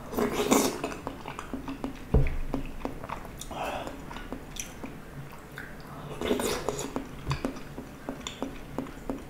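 Close-miked wet chewing and lip smacking of soft Korean steamed egg, with many short mouth clicks. A dull knock sounds about two seconds in, and an orange plastic spoon scoops more egg from a plastic tub later on.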